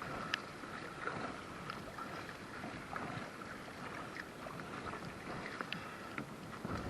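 River water running and burbling around a kayak, with scattered small splashes and drips.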